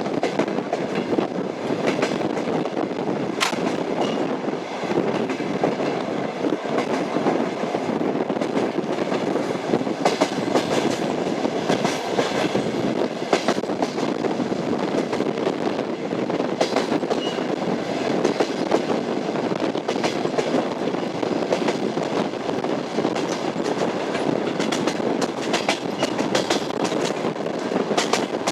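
Train wheels knocking over the rail joints under a steady rumble of the moving railway car, with sharp clicks at uneven intervals.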